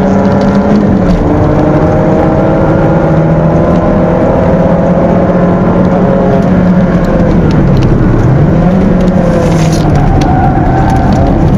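A Peugeot 206's 1.6-litre four-cylinder engine heard from inside the cabin, running hard on track. The revs sag slowly, then drop sharply and climb back about eight seconds in as the car works through a corner.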